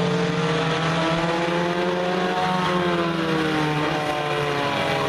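Several race car engines running at speed on the track, their pitches rising and falling as the cars come by and move off.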